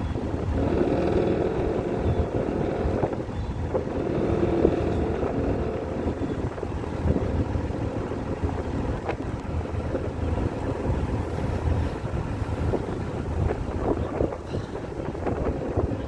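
Wind buffeting the microphone outdoors, with a steady low rumble throughout.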